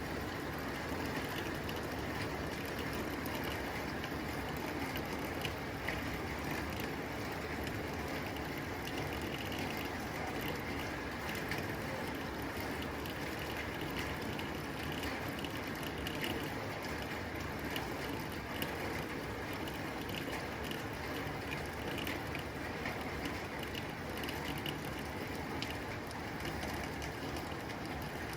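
Steady rain falling on a tin roof: a dense, even hiss scattered with many small sharp ticks of drops striking the metal.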